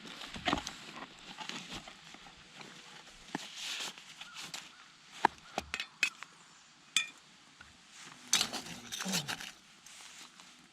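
Camp cookware being handled: irregular clinks and knocks, one with a short metallic ring about seven seconds in.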